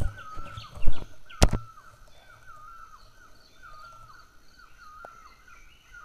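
A bird repeating a short call, a level note that drops at its end, about once every 0.7 s, with fainter high chirps from other birds. Two loud knocks come in the first second and a half.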